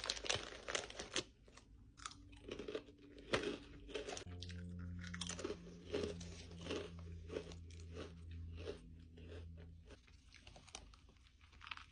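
A person chewing crunchy chips close to the microphone, in a run of short crunches. A low steady hum joins about four seconds in and stops near ten seconds.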